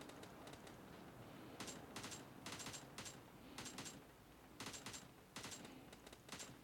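Faint runs of sharp clicks, in short clusters about once a second, starting a second and a half in.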